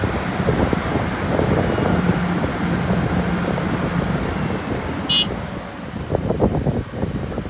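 Diesel engine of heavy earthmoving machinery running steadily, with a brief high beep a little over five seconds in.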